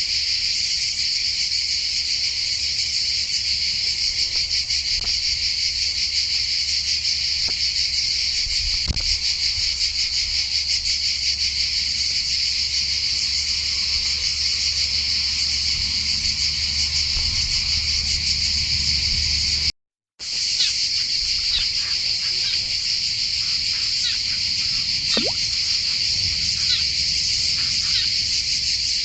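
Dense chorus of insects, such as crickets or cicadas, giving a steady high buzzing trill. It cuts out for half a second about two-thirds of the way through, and a few faint short chirps sound over it afterwards.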